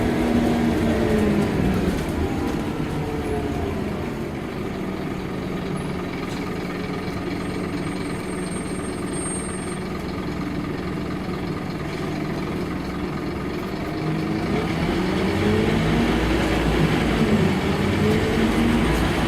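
Scania K230UB bus's diesel engine, heard from on board. The engine note falls away as the bus slows, runs steadily and a little quieter for about ten seconds, then rises again in pitch and loudness as the bus accelerates.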